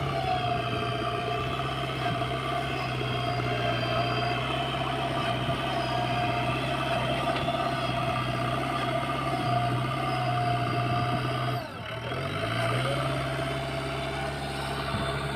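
Diesel engine of a JCB earth-moving machine running steadily. About twelve seconds in its speed briefly drops and climbs back up.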